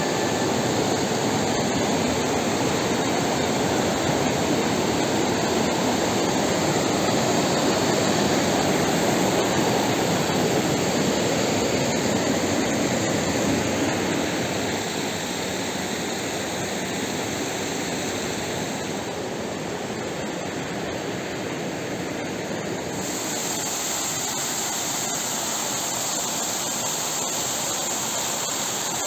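Waterfall swollen by two days of rain: a steady, dense rushing of falling water. It drops somewhat in level about halfway through, and its tone shifts again a few seconds later.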